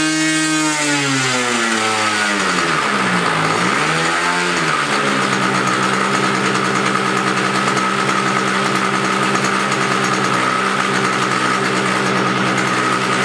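90-size RC airplane glow engine revving high, then throttled back so the note drops, with a short blip of throttle about four seconds in, before settling into a steady idle.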